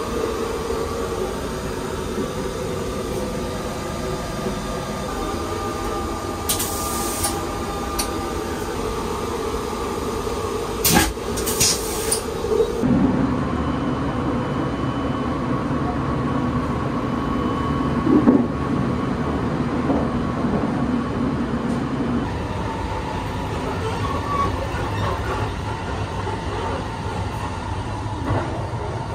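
Steady rumble and hum of the Sunrise Express sleeper train running, heard from inside the car, with a few short clatters about 7 and 11 seconds in. About halfway through the running noise changes, with a deeper hum coming to the fore.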